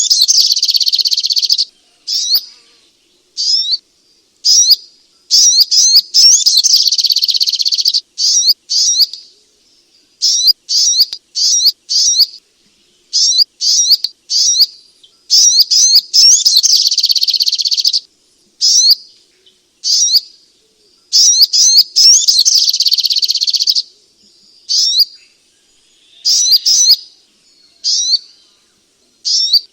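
Sogok ontong (spiderhunter) singing loud, high-pitched chirping phrases in repeated bursts, several of them running into long rapid trills of two to three seconds, with short pauses between.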